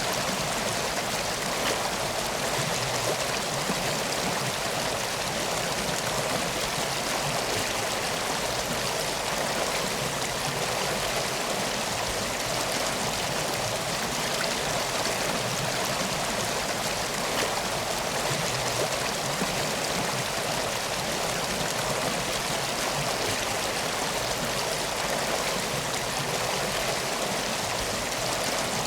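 Flowing water: a steady, unbroken rush like a river or stream.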